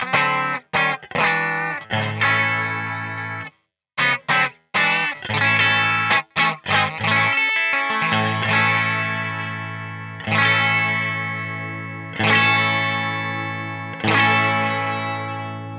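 Overdriven electric guitar played through a Peace Hill FX TR tube preamp, pushed by a Tube Screamer-style overdrive pedal. A few short, choppy chords come first, then full chords struck about every two seconds and left to ring and fade.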